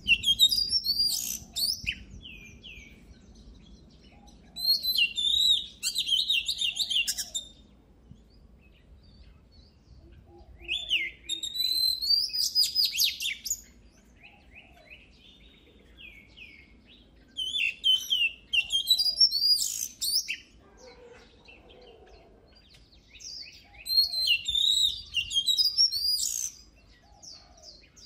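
Oriental magpie-robin singing: rapid phrases of high whistles and trills, each two to three seconds long, coming about every six seconds with quiet gaps between, five phrases in all.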